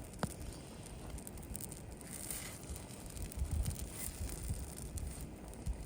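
Bannock frying in a pan on a camping stove, a steady crackling sizzle, with a few low rumbles.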